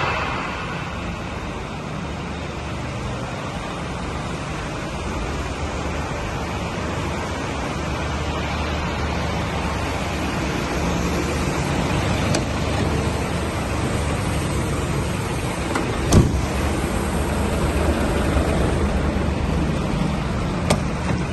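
Scania P340 tipper truck's diesel engine idling steadily, a low even hum. A sharp knock about sixteen seconds in and a smaller one near the end.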